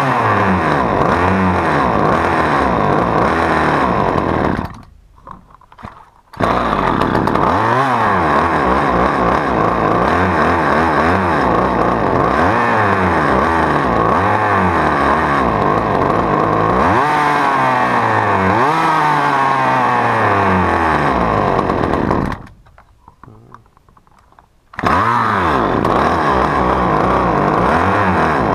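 Husqvarna T435 top-handle chainsaw's small two-stroke engine running and being revved again and again, the pitch climbing and falling, as it is tested after repair. Twice the sound drops away briefly and comes back.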